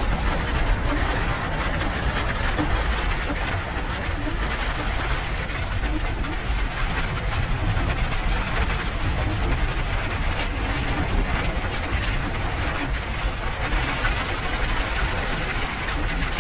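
Steady rain, an even crackling hiss with a heavy low rumble underneath.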